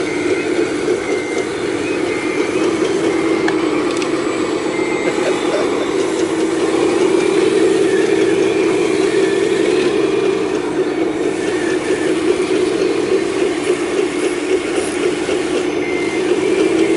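Full-size excavator's diesel engine running steadily while digging, a continuous drone that rises slightly about halfway through.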